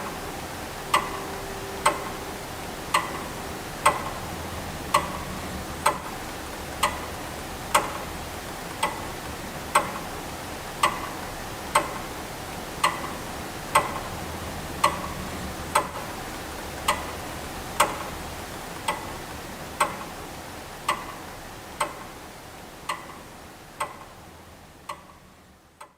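Clock ticking steadily, about one tick a second, fading out near the end.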